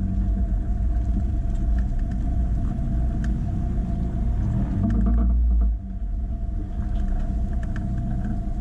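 Mazda Miata's four-cylinder engine idling as the car creeps to a stop, with a steady low rumble. The rumble swells for about a second past the middle and then drops off suddenly.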